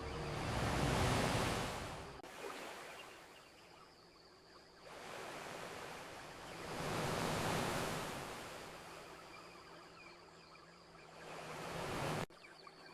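Ocean waves washing onto a shore: two swells of surf, one about a second in and one in the middle, with another rising near the end that cuts off suddenly.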